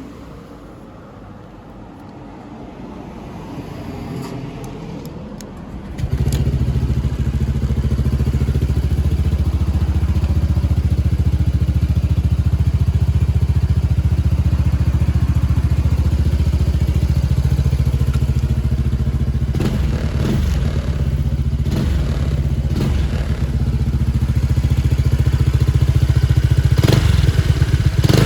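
Honda PCX scooter's single-cylinder four-stroke engine breathing through a custom aftermarket muffler: it starts about six seconds in and then runs steadily at idle, with a few brief changes in pitch later on.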